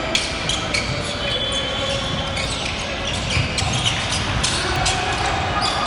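Basketball game in a gym: a ball bouncing on the hardwood court with scattered thuds, short high sneaker squeaks, and voices of players and spectators in the background.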